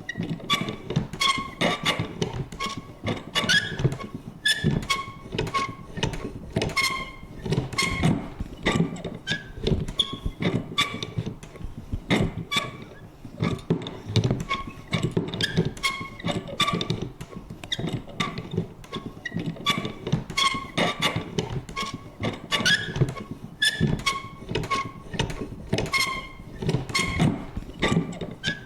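Vintage paper punch worked over and over: quick clicks and thunks several times a second, mixed with short high creaks and squeaks from its mechanism.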